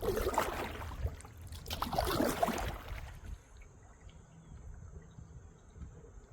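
Kayak paddle strokes: the blade dipping and swishing through the water twice, about two seconds apart, then quieter water lapping.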